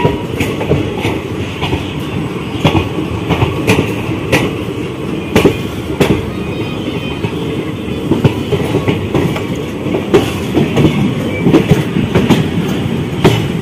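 Ganga Satluj Express passenger train running along the line, heard at an open coach doorway: a steady rumble of wheels on rail with irregular sharp clicks and knocks as the wheels pass over rail joints.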